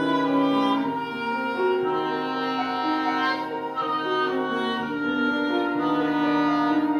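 Live wind quintet playing classical chamber music: several instruments hold overlapping sustained notes, the parts moving to new pitches every second or so.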